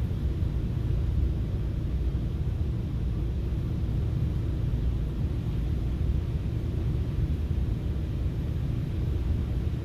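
Steady low rumble of a FrontRunner commuter train running along the track, heard from inside the passenger car.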